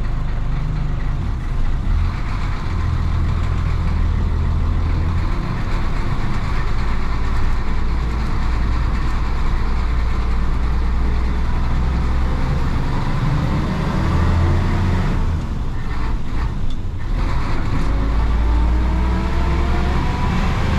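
1966 Isuzu BXD30 bonnet bus's DA640 diesel engine running under way, heard from the front of the cabin. About three-quarters of the way through the sound drops briefly, then the engine note rises steadily as the bus picks up speed.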